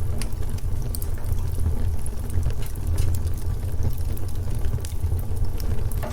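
Wood fire in a fireplace crackling, with scattered sharp pops and snaps over a steady low rumble of the burning fire.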